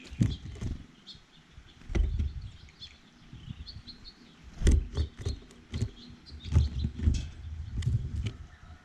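Small birds at a feeder: scattered high chirps amid repeated sharp taps and knocks of birds pecking and landing close to the microphone, the loudest knocks about two seconds in, near the middle and a little later.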